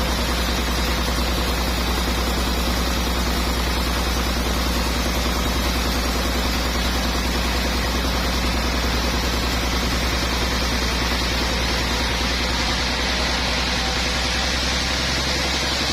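Sawmill machinery running steadily: a constant low hum under an even hiss, with no pauses or changes.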